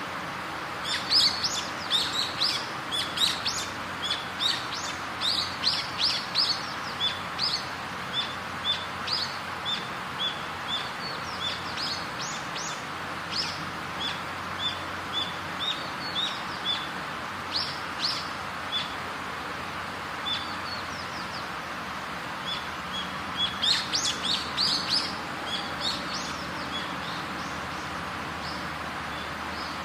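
Small birds chirping: many short, high chirps in quick runs, busiest near the start and again near the end, over a steady background hiss.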